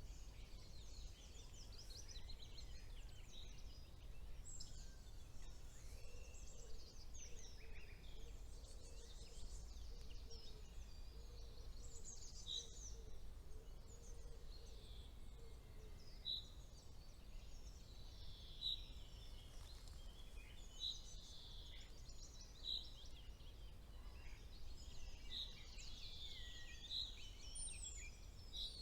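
Several songbirds singing at once, their trills and whistled phrases overlapping. In the second half one bird repeats a short high note every couple of seconds. A faint steady low rumble lies underneath.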